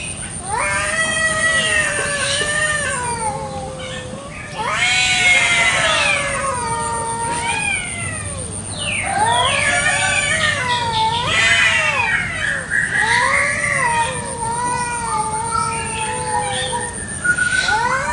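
Two domestic cats caterwauling at each other in a territorial standoff: long, wavering yowls that rise and fall, often overlapping. These are the threat calls of a fight.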